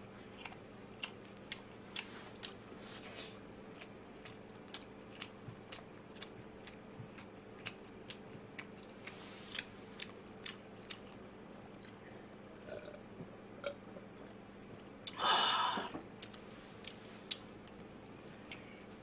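Close-miked chewing of crispy fried chicken: irregular sharp crunches and small mouth clicks, with one louder, longer noise of about a second some three-quarters of the way through.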